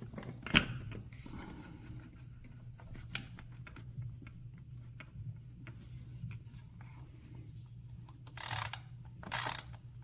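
Hand tools and parts being handled, with one sharp click about half a second in and scattered small clicks. Near the end, two short runs of ratchet clicking about a second apart, a ratchet worked in short strokes to tighten a hose clamp.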